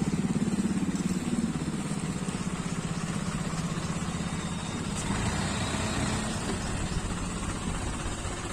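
Engine of a second-hand Kubota tracked harvester running steadily, a little louder in the first second or so.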